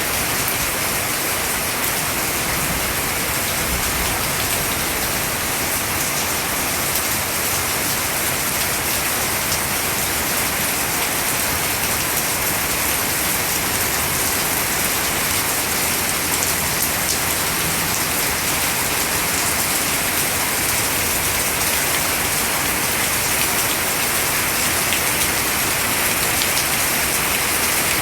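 Steady rain falling on wet foliage, an even hiss made up of countless small drop patters.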